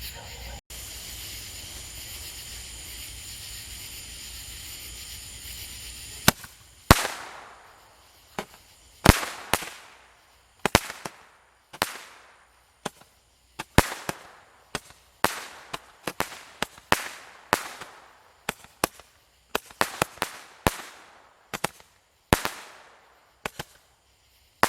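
A long, irregular volley of loud, sharp firework bangs, roughly two a second, each trailing off in a short echo. It begins about six seconds in, after a stretch of steady faint hiss. The bangs are kind of loud, painful to the ear at close range.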